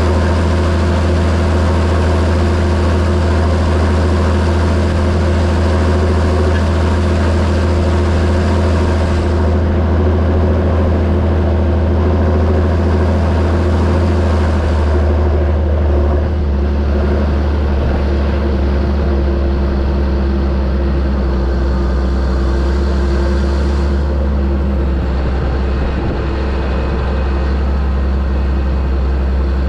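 John Deere 7730 tractor's six-cylinder diesel engine running steadily, its note dropping slightly about halfway through.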